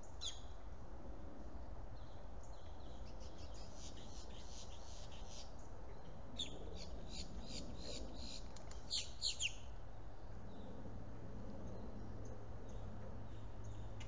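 Birds chirping in quick runs of repeated high notes, loudest with a few sharp falling notes a little past the middle, over a steady low hum.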